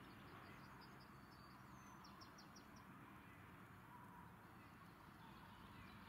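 Near silence of open-air ambience, with a faint songbird giving a short run of quick high chirps in the first half.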